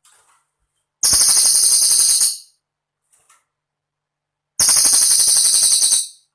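Cililin song: two rapid, high-pitched trills of about a second and a half each, separated by a few seconds of silence.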